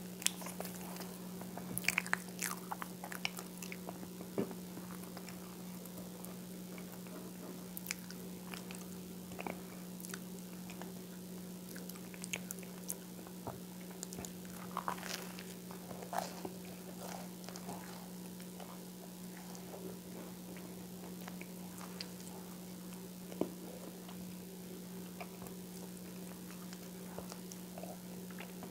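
Close-miked biting and chewing of whole wheat toast with peanut butter and coconut oil: soft crunches and wet mouth clicks, bunched about two seconds in and again around fifteen seconds in, over a steady low hum.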